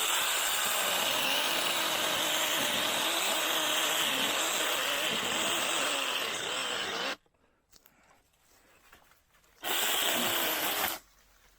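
Small 6-inch battery-powered mini chainsaw running and cutting branches, in one long run of about seven seconds that stops abruptly, then a second short run of about a second near the end.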